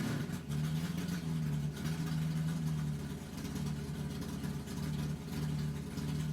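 Ford 5.0 V8 engine idling steadily with a pulsing low hum. The exhaust leaks at the headers and collector flanges make it noisy.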